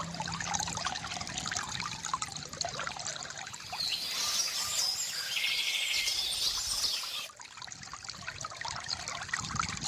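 Water trickling and splashing from a bamboo fountain, with birds chirping and trilling from about four seconds in until they stop suddenly about seven seconds in.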